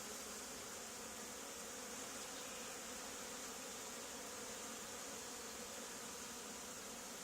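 Honey bee swarm buzzing steadily and faintly.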